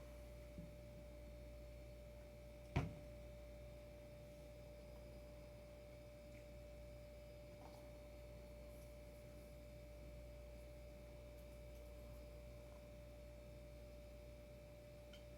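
Near silence: room tone with a faint steady hum, and a single sharp knock about three seconds in.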